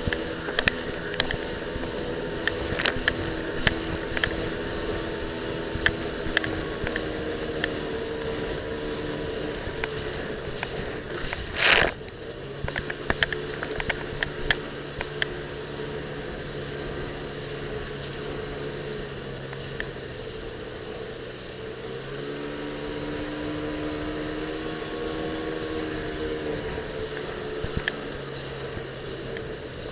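Jet ski engine running steadily, its pitch dropping and settling about twelve seconds in and rising again about ten seconds later. Frequent sharp clicks and knocks from the loosely mounted action camera rattling against the life vest, and one brief loud rush of noise just before the pitch change.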